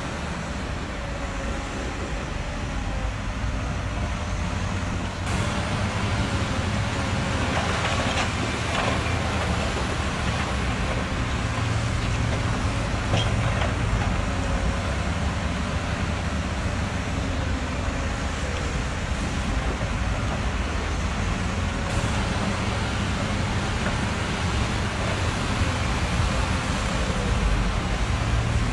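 Heavy truck's diesel engine running steadily with a low, even hum, with a few faint ticks over it.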